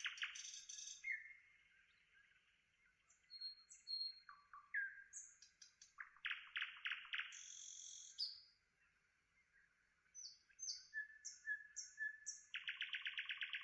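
Songbirds singing: quick bursts of rapidly repeated notes in the middle and again near the end, with short high whistles and chirps in between.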